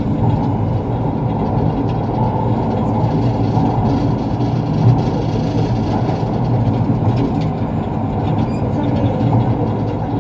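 Steady loud rumble of a train running, with a few faint clicks.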